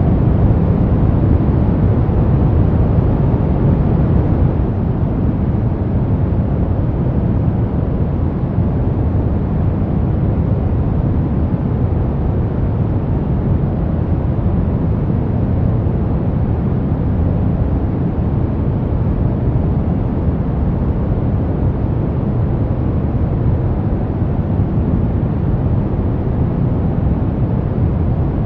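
Brown noise: a steady, deep rumbling hiss with its weight in the low end and no changes or events.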